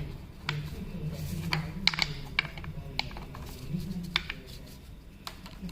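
Irregular light clicks and taps, like tools and small metal parts being handled during engine work, over a low hum.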